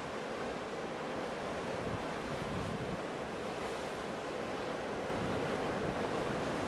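Ocean surf: a steady wash of waves that swells a little louder about five seconds in.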